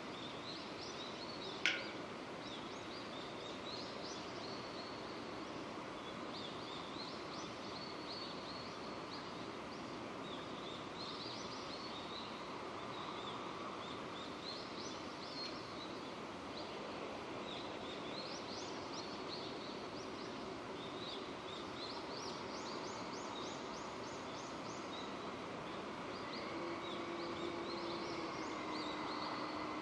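Steady rain falling, with birds chirping repeatedly over it. A single sharp click sounds about two seconds in, and a steady low hum comes in near the end.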